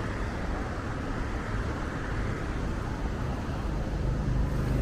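Steady low vehicle rumble of engine and road noise, with a faint even engine hum coming in near the end.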